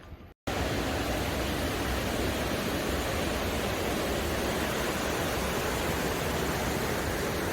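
Steady, loud rushing water, as of a waterfall or fast mountain stream, starting abruptly about half a second in after a brief dropout.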